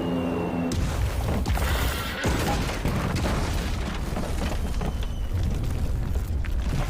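Aerial bombs exploding in a dense, continuous rumble of blasts, with several sharp impacts standing out. This is an air raid on a command post, with dramatic music underneath. A held musical tone breaks off under the first blast, a little under a second in.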